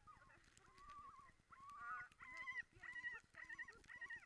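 Sled dogs yelping and whining in a rapid run of short, high, even-pitched calls, the excited sound of a dog team waiting to run.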